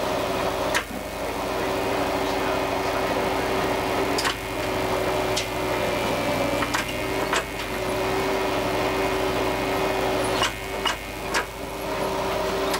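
Diesel railcar heard from inside its driver's cab, moving off along a station platform: a steady engine and transmission hum over running noise, with a few sharp clicks from the wheels.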